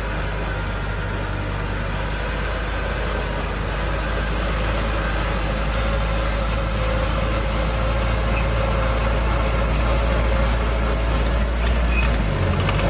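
Heavy diesel earthmoving machinery running steadily with a low drone that grows slightly louder, with faint high ticks or squeaks from about five seconds in.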